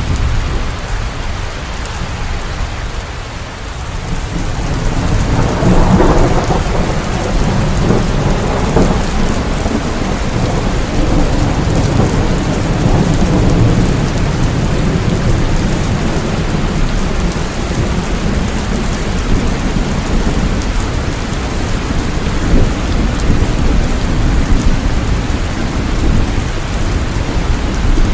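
Steady rain with rolling thunder. The low rumble swells about five seconds in and rolls on under the rain.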